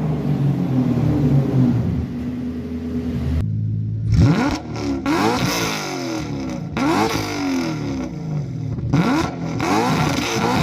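Toyota UZ-series V8 with 4-2-1 headers, running steadily with its pitch easing down slightly. A few seconds in, the sound changes abruptly to a series of quick throttle blips, the revs shooting up and falling back about once a second.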